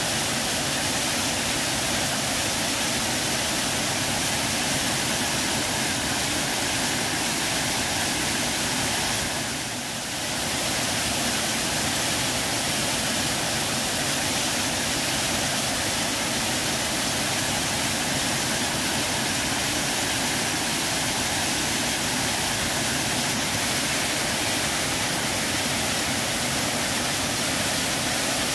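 Waterfall water rushing in a steady, dense roar, with a brief dip in level about ten seconds in.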